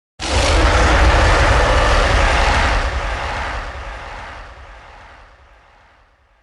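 One long, deep, rumbling creature roar sound effect that starts abruptly and slowly fades away over about six seconds.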